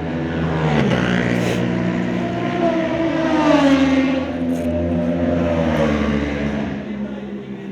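Yamaha R7's parallel-twin engine through an Akrapovic exhaust, revving up about a second in. Its pitch then swells and falls away, easing off near the end.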